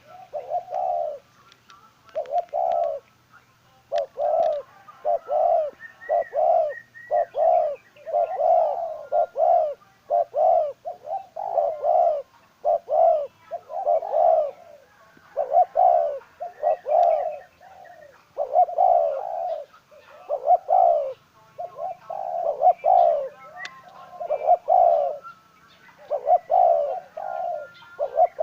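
Spotted dove cooing over and over in short, low, mellow phrases about a second apart: the call of a decoy dove used to lure wild doves.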